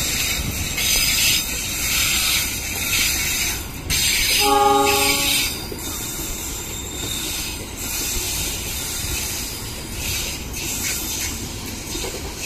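A passenger train's steel coaches rolling past close by, a continuous rumble of wheels on rail with scattered sharp clacks over the rail joints. A short train horn blast sounds about four and a half seconds in.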